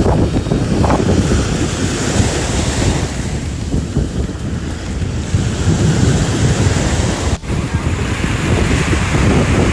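Strong wind buffeting the microphone over a steady wash of waves, a dense low rumble throughout, with a brief break about seven seconds in.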